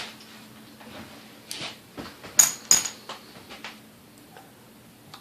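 Small metal parts and tools clicking and knocking as a Sunbeam Mixmaster stand mixer is taken apart on the bench. There are two sharp, ringing metallic clinks in quick succession about halfway through.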